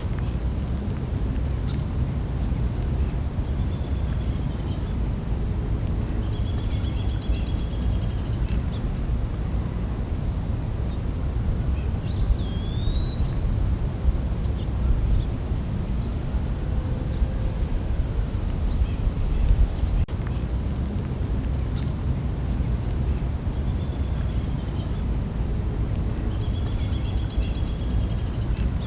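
Night-time forest ambience: insects chirping in an even pulse of about three chirps a second over a continuous high insect drone. A bird gives a few short high trills, and the loudest part is a steady low rumble underneath.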